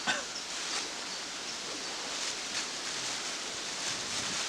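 Steady outdoor rustling noise, with a few short rustles and scrapes near the start and again about two and a half seconds in.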